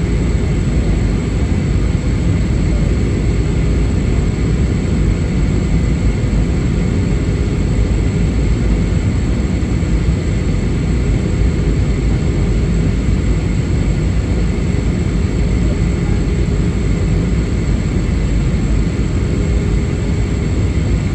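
Airbus A320 passenger cabin in flight: the steady rumble of engines and airflow with faint steady whines on top, unchanging throughout.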